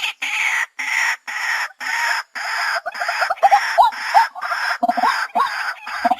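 White-breasted waterhen calling: a steady run of harsh, croaking calls at about two a second, each with short upward-sweeping notes.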